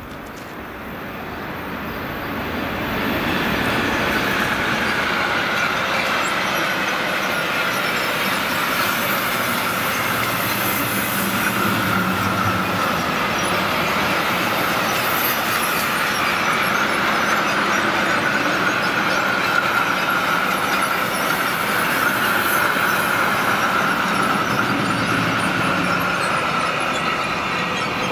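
Long freight train of open box wagons hauled by an electric locomotive passing at speed, steel wheels running over the rails with a sustained high ringing that wavers slightly. The sound builds over the first few seconds as the train arrives and begins to fade near the end as the last wagons pass.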